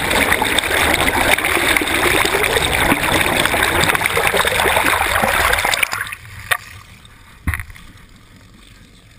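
Loud rushing and gurgling of water streaming past a camera housing on a fishing net held in the water from a moving boat, cutting off about six seconds in. Two sharp knocks follow about a second apart in the quieter remainder.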